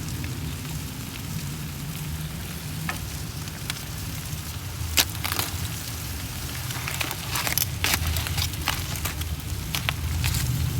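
Food sizzling on an outdoor barbecue grill over a steady low rumble, with sharp crackles and pops starting about halfway through and coming more often near the end.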